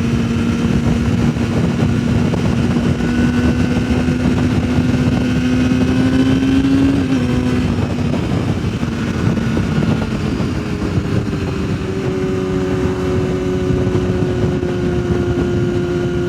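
Yamaha sportbike engine running at road speed under a steady rush of wind. The engine note climbs slowly, drops away about seven seconds in, then a higher note holds and eases slightly lower.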